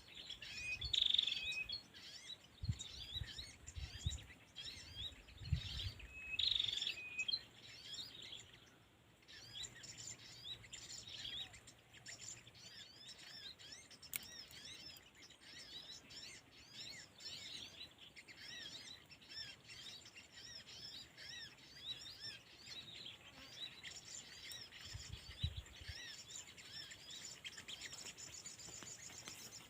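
Small birds chirping rapidly and without a break, with a couple of louder calls about one and six seconds in. Some low thumps come in the first several seconds and again near the end.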